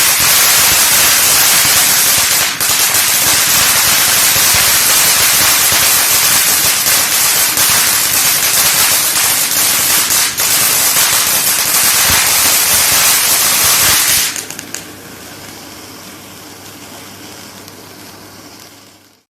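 Fireworks crackling loudly in a dense, continuous stream of small pops. They stop suddenly about fourteen seconds in, leaving only a faint hiss and a low hum.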